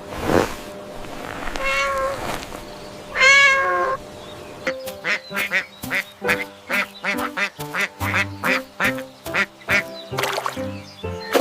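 Two drawn-out animal calls, one about two seconds in and a second, louder one a second and a half later, followed by a bouncy tune of quick short notes.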